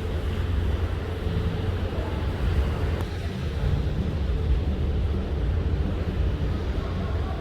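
Steady low drone of a boat underway, its engine hum mixed with a rush of wind and water.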